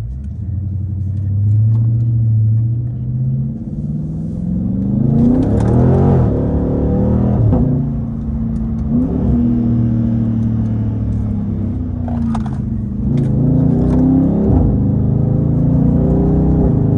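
The 392 (6.4-litre) HEMI V8 of a 2021 Dodge Scat Pack Widebody accelerating hard. The engine note climbs through the revs and drops back at each upshift, several times over.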